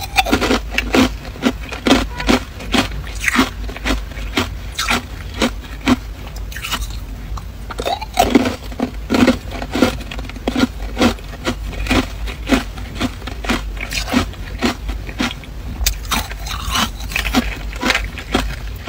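Hard clear ice being bitten and chewed close to the microphone: a continuous run of sharp, crisp crunches, about two or three a second.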